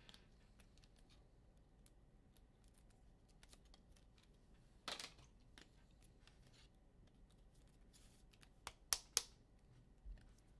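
Mostly quiet, with faint handling noise of trading cards and packs: a short rustle about five seconds in and a few sharp clicks near the end, two of them close together and loudest.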